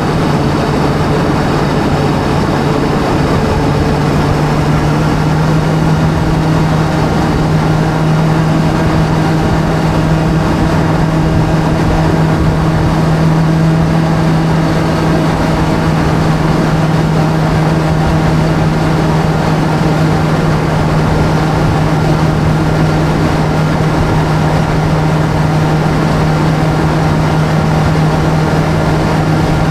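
Motorbike engine sound in a video game, held at one steady pitch as the bike cruises.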